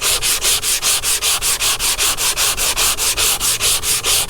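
Hand sanding block with 80-grit paper being worked back and forth over guide-coated body filler in quick, even strokes, about five a second. This is block sanding to cut down the high spots until the guide coat is gone from the low areas.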